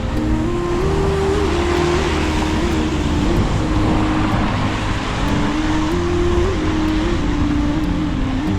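Traffic on a rain-wet city street, heard from a moving bicycle: a steady hiss of tyres on wet road with motor vehicles running.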